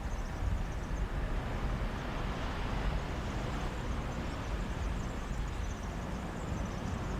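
Steady wash of sea surf on a beach, with wind rumbling on the microphone underneath.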